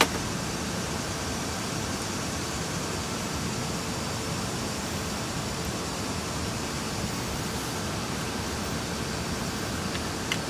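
Steady, even rushing noise with no rhythm or pitch change, and a faint click near the end.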